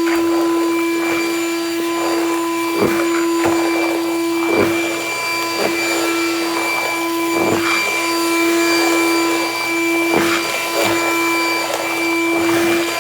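A Ridgid 6-gallon WD6000 wet/dry shop vac running loud and steady with a constant motor whine. Brief scattered knocks and rattles come through as leaves and debris are sucked up the hose.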